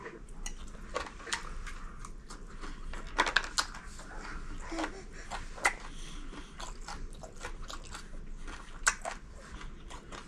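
A man chewing a mouthful of chicken skewer close to the microphone: irregular wet mouth clicks and smacks, with a few louder ones about three, five and a half, and nine seconds in.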